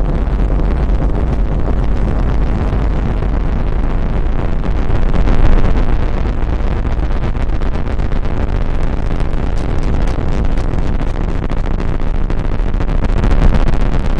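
ASMR rustling and rubbing right on the microphone, a loud, dense, continuous noise with a deep rumble, swelling a little about five seconds in and again near the end.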